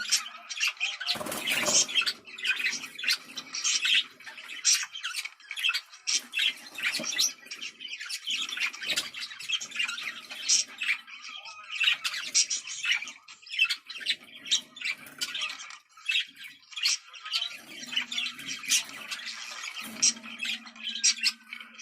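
Budgerigars chattering without a break: a dense stream of short warbles, chirps and squawks, the lively budgie chatter played to pet budgies to bring them into breeding condition. A brief louder rustling noise breaks in about a second and a half in.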